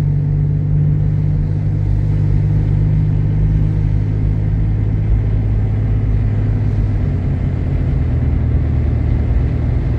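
Jeep Grand Cherokee's 3.7-litre V6 and road noise heard from inside the cabin while driving: a steady low drone whose pitch shifts about seven seconds in.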